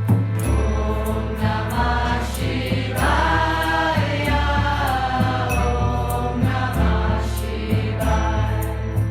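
Mantra chanting music: voices sing over a bass line that steps to a new note about once a second, with a light, regular percussion tick.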